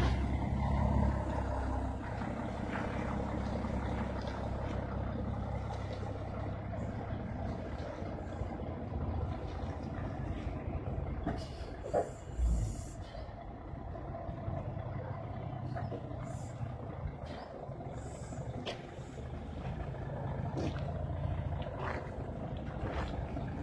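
Scania K113 bus's diesel engine running steadily, with a short thump and hiss of air about halfway through, typical of the air brakes.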